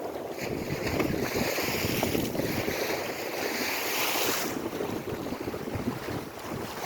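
Lake Erie waves washing on the shore: a hiss that swells for about four seconds and then fades. Wind buffets the microphone with a gusty rumble.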